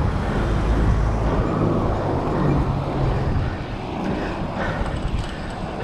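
Rumbling wind and road noise on a riding cyclist's camera microphone, loudest in the first half and easing off about halfway through.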